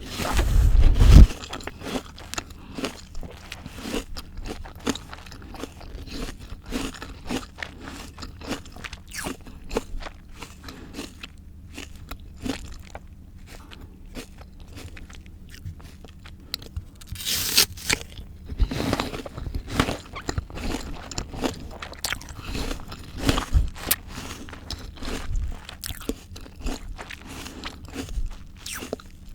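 Close-miked crunching of raw fruit or vegetables being bitten and chewed: a loud bite right at the start and another in the middle, with a steady run of crisp chewing crunches between.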